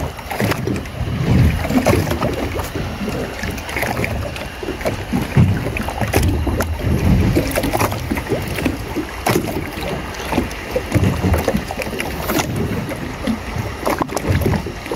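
Water lapping and slapping against a small fishing boat's hull, with wind buffeting the microphone. There are irregular low rumbling swells and scattered sharp little knocks and splashes.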